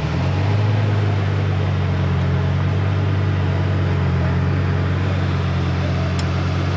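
An engine idling steadily at a low, even pitch.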